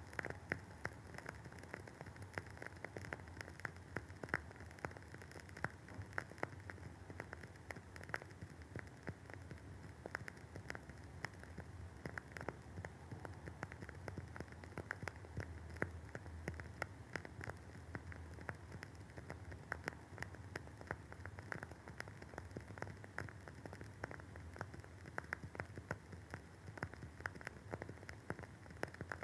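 WoodWick candle's wooden wick crackling as it burns: a dense, irregular run of small pops and snaps, several a second, over a faint hiss.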